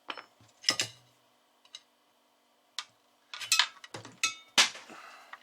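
Small metal parts and a hand tool clinking and clacking as they are handled: a run of sharp, separate clicks, bunched together in the second half, one of them ringing briefly.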